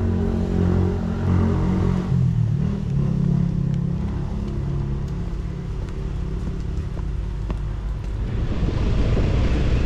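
A vehicle's engine running while on the move, its pitch shifting about two seconds in, with road and wind noise growing louder near the end.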